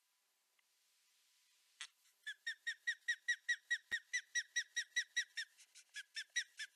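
Adult osprey calling in alarm: a rapid series of short, high, down-slurred whistled notes, about five a second, beginning about two seconds in after a single note.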